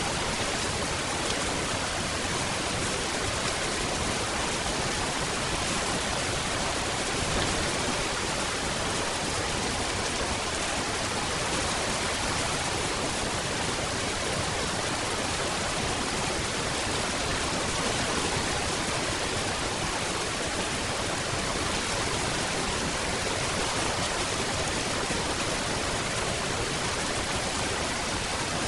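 Steady rain falling as a dense, even hiss, with no thunder and no single drops standing out.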